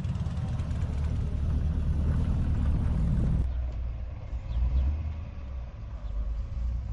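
A car engine running with a low exhaust rumble, which drops away abruptly about three and a half seconds in.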